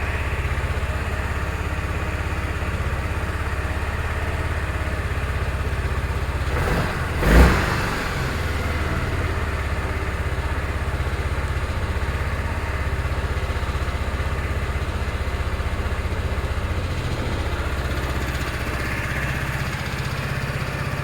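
Yamaha Majesty 250 scooter's single-cylinder four-stroke engine idling steadily, with one short blip of the throttle about seven seconds in.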